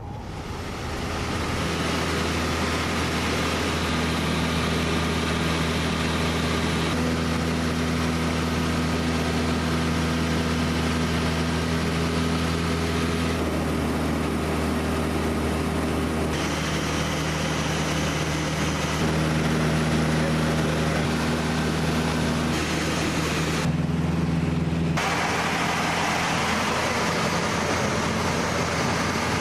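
Piston engine of a light training aircraft running steadily with a low drone. The tone shifts abruptly several times.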